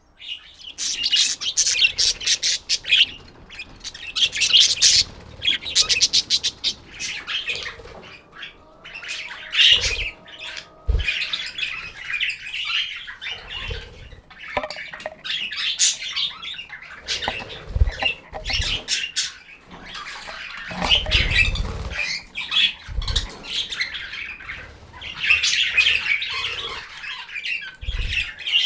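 Budgerigars chirping, chattering and squawking in quick, continuous runs, with a few short low thumps in the middle.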